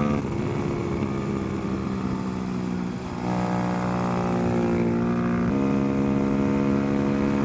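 Honda Grom's 125 cc single-cylinder four-stroke engine running at racing speed, heard on board. Its pitch drops just after the start, then climbs and gets louder in steps about three and five and a half seconds in as the bike accelerates.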